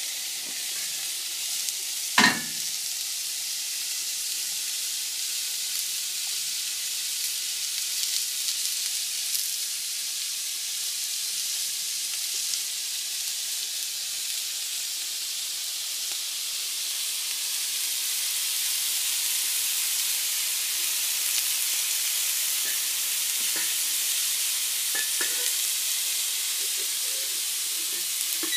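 Pork chops sizzling steadily in a cast iron skillet, a constant high hiss. A single sharp click about two seconds in and a few light knocks near the end.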